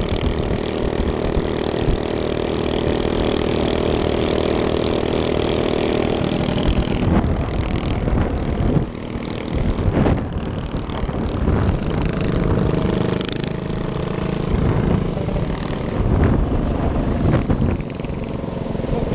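Small minibike engine running steadily for about six seconds, then rising and falling unevenly as the bike is ridden, with rough noise and a few knocks over it.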